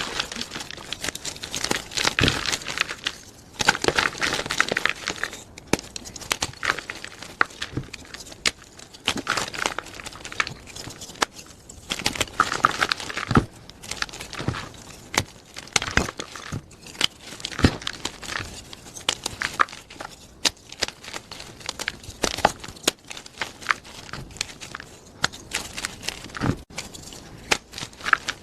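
Blocks of plain gym chalk being crushed and crumbled by hand: dense, uneven crunching and crackling with many sharp snaps, in bursts that swell and ease off every few seconds.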